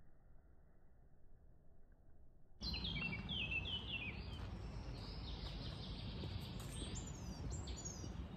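About two and a half seconds of faint, muffled near-quiet, then the outdoor sound cuts in suddenly. Woodland birds sing over it: a quick run of short falling chirps, then higher falling whistles, over a steady low background noise.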